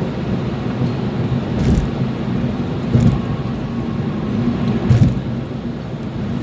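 Steady running noise of a car being driven, a low engine hum with road rumble, with a few dull thumps about a second and a half, three and five seconds in.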